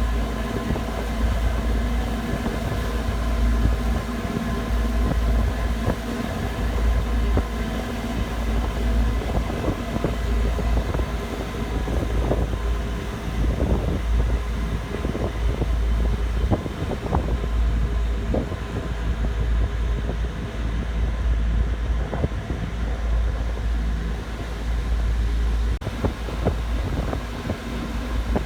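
Ferry's diesel engines running in a steady low drone, with wind buffeting the microphone and an occasional knock.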